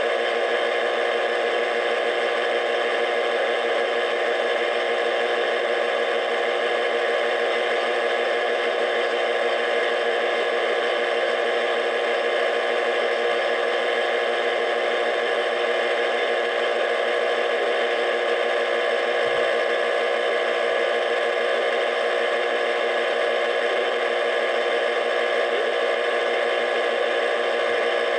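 Steady static noise at a constant level, with a cluster of faint fixed tones running through it and no change or break.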